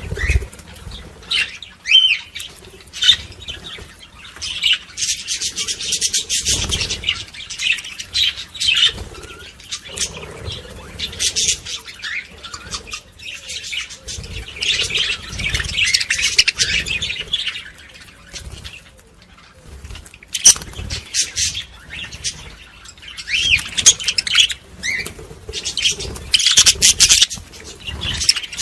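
A flock of budgerigars chattering and warbling, with a constant run of short chirps and clicks that swells and thins in waves every few seconds.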